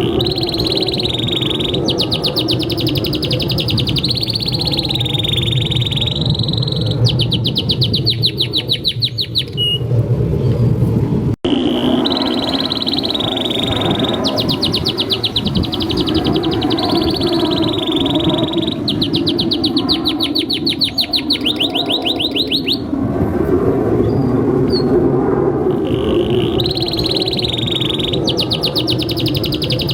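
Domestic canary singing a long, continuous song: held high whistled notes alternating with fast rolling trills, phrase after phrase, over a steady low background hum. The sound cuts out for an instant about 11 seconds in.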